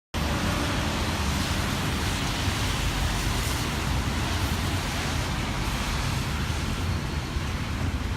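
Steady road traffic noise on a busy city avenue, with typhoon wind buffeting the microphone in a low, fluttering rumble.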